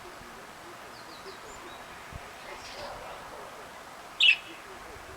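Pet canary calling: a few faint high chirps about a second in, then one short, loud chirp about four seconds in.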